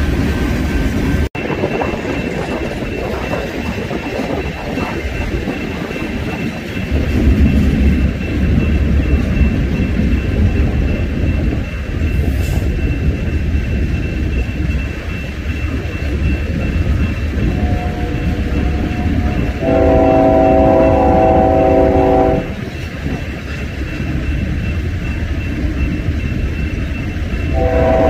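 Freight train of tank cars and gondolas rolling past with a steady rumble and wheel noise. About two-thirds of the way in a diesel locomotive horn sounds, a softer note and then a loud chord held for about three seconds, and it sounds again near the end.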